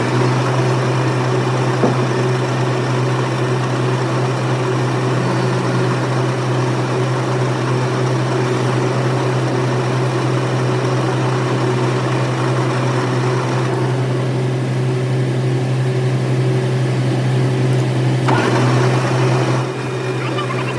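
A machine running steadily, a loud low hum with a noisy whirr above it that shifts a little in tone about two-thirds of the way through and again near the end.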